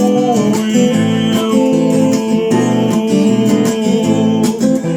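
Acoustic guitar strumming chords in a steady rhythm, an instrumental passage between sung lines of a song.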